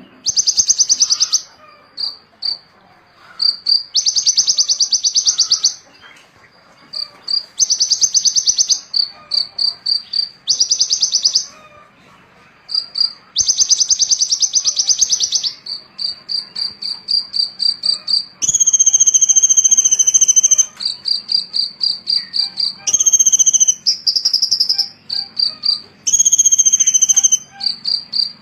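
Small songbird singing: high buzzy trills of one to two seconds alternate with quick runs of short repeated notes, and from about two-thirds of the way in come clear, held whistled notes.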